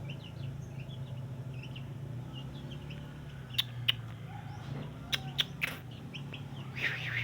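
Small birds chirping in short, quick high notes, with a few sharp clicks in the middle and a busier burst of chirping near the end, over a steady low hum.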